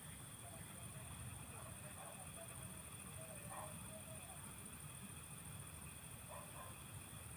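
Open fields at dusk: a steady, high-pitched chorus of insects and frogs over a low rumble, with a few faint short animal calls in the middle and again near the end.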